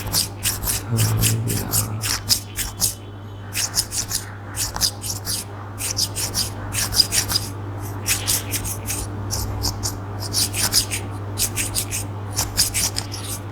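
Toothpick scratching and rubbing close to the microphone in quick runs of short, crisp strokes, several a second, with brief pauses, over a steady low hum.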